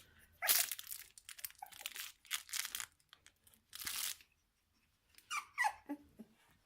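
Rustling and crinkling as three-week-old kelpie puppies shift about on their bedding, in several short bursts. Near the end a puppy gives a couple of brief, falling squeaky whimpers.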